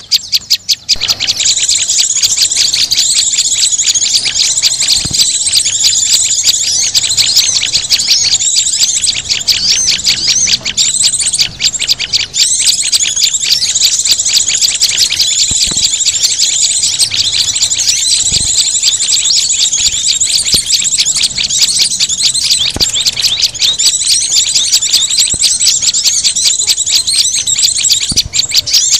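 Bird-luring call recording of small songbirds: a dense, fast, high-pitched twittering of quick repeated chirps, with no pause from about a second in.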